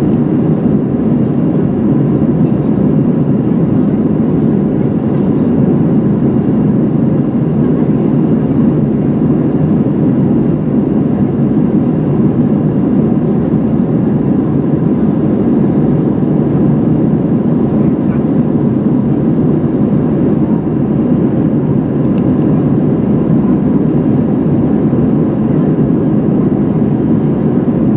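Steady cabin noise inside an Airbus A320-211 in flight after takeoff: an even, loud rumble of its CFM56-5A jet engines and airflow past the fuselage, with faint steady tones above it.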